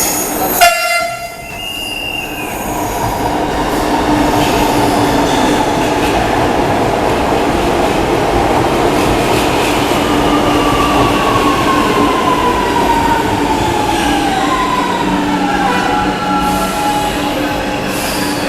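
Chennai Metro electric train running into the station with a steady rumble and hiss, its wheels squealing on the rails. Its electric drive's whine falls in pitch from about halfway through as the train slows to a stop. A brief sharp blast is cut off in the first second.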